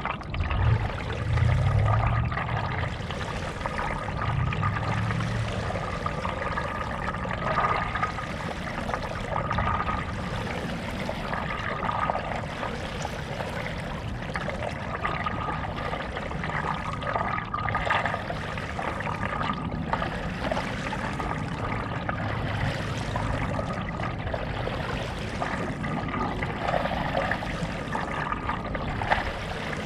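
Stand-up paddleboard paddle strokes in lake water: water splashing and trickling off the blade, with a swell every couple of seconds.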